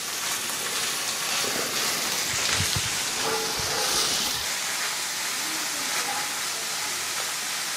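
Smoked herring and onions sizzling in hot oil in a cast-iron skillet, a steady frying hiss, as a wooden spoon stirs them.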